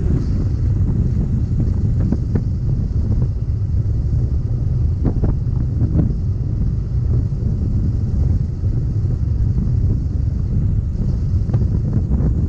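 Motorcycle on the move: a steady low engine and road rumble with wind buffeting the microphone.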